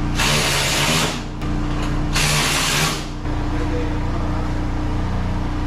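Power tool run in two short bursts of about a second each, over a steady mechanical hum.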